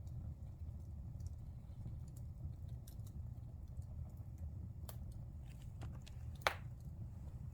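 Fire burning in a fireplace: a steady low rumble under scattered small crackles, with one loud pop near the end.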